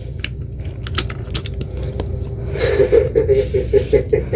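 Light clicks and clatters of small hard objects being handled, over a steady low hum. About halfway in, a wavering, pulsing sound joins.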